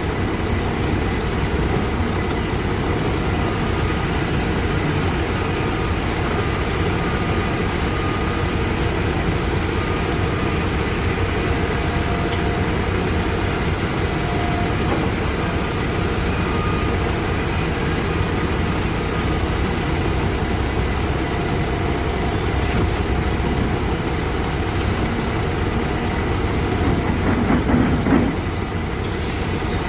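Heavy diesel excavator running steadily while loading a dump truck. It has faint whining tones over the engine noise. It grows louder about 27 seconds in, then drops back suddenly a second later.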